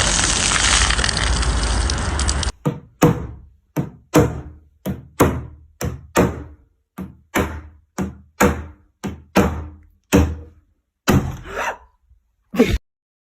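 A loud, even rush of noise that cuts off suddenly, then a run of about sixteen sharp knocks, roughly two a second, each dying away quickly.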